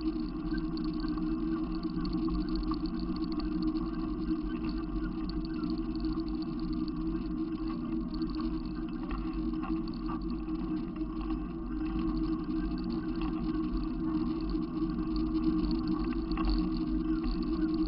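Steady low rumble of a running vehicle, holding even throughout.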